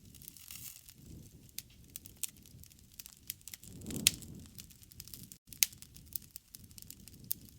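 Wood fire crackling, with many sharp snaps and pops over a soft low rumble of flames, and one louder pop about four seconds in.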